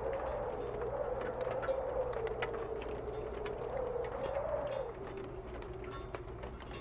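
Storm wind moaning in a low, wavering tone that rises and falls, then settles lower and steadier about five seconds in. Sharp ticks of ice pellets dinging on metal are scattered through it.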